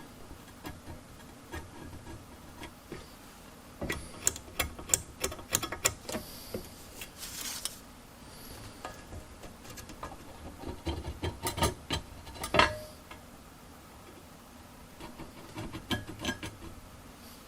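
Irregular clicks and knocks of hand tools and steel being handled on a bench, in scattered clusters, with a brief scraping rustle about seven seconds in.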